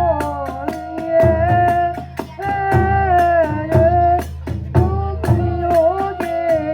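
Kagura hayashi music: a bamboo flute plays a wavering, sliding melody over quick taiko drum beats and the clash of small hand cymbals.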